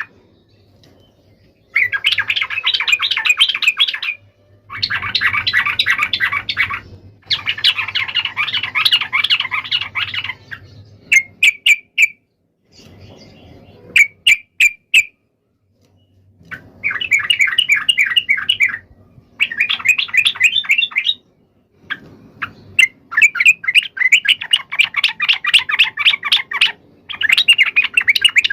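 Yellow-vented bulbul (trucukan) giving its agitated fighting chatter: bursts of rapid, harsh repeated notes lasting two to four seconds each, separated by short pauses, with a few single sharp notes in the middle.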